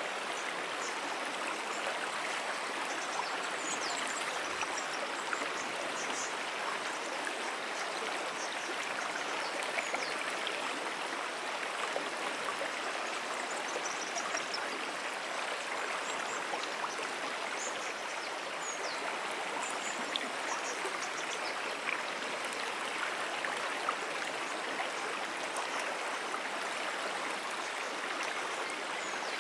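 Moonan Brook, a small perennial stream, flowing steadily: a constant rush and babble of water. Faint high chirps come through now and then.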